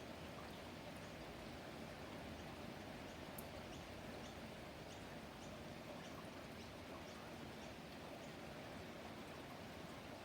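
Small songbird chirping faintly: a series of short, high chirps, about two a second, over a steady background hiss.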